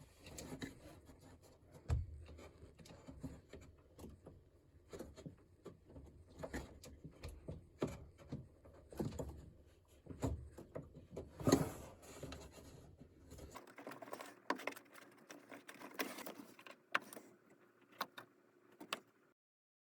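Irregular knocks, clicks and rattles from a drum washing machine being handled or worked on, over a low hum that stops about two-thirds of the way through.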